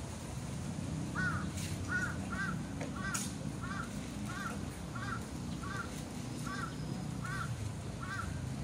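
A bird calling: a short call that rises and falls in pitch, repeated evenly about twice a second from about a second in, over a steady low background murmur.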